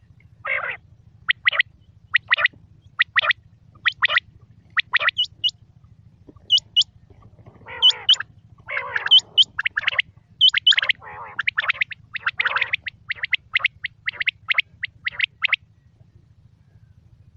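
Quail calling: a series of short, sharp notes, many in pairs, that gets busier and more overlapping midway and stops about three-quarters of the way through. A steady low hum runs underneath.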